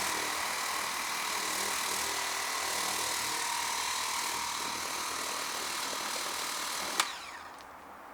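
Lippert Power Pro Max battery-powered portable pressure washer running, a steady electric-motor whine over the hiss of its water spray. It cuts off with a sharp click near the end.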